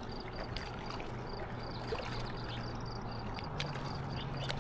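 Steady rush of river water, with a low steady hum that steps up slightly in pitch about three and a half seconds in, a faint rapid high ticking, and a few light clicks.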